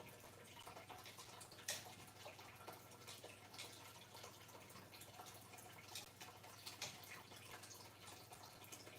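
Near silence with a low steady hum and a few faint, sharp clicks and taps, the clearest about two seconds in, from small metal monitor-mount hardware (Allen screws and wrench) being handled.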